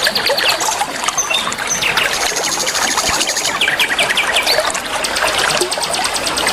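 Several songbirds chirping and trilling in quick runs of notes, with a high, fast trill in the second half, over a continuous trickle of running water.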